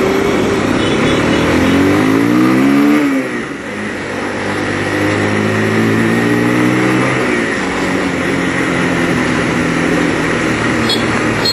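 A 200cc single-cylinder motorcycle engine accelerating under way. The revs climb, drop at a gear change about three seconds in, climb again, then settle to a steady cruise, with wind rushing over the microphone throughout.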